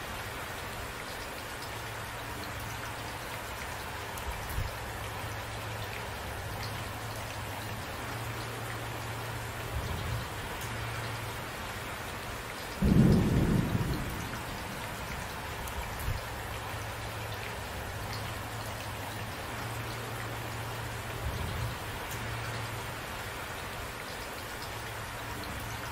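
Steady rain falling, with one sudden clap of thunder about halfway through that dies away over a second or two.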